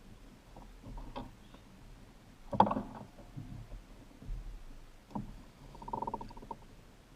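Knocks and clatter of gear against a plastic fishing kayak, with one sharp knock about two and a half seconds in the loudest, and a quick run of clicks about six seconds in.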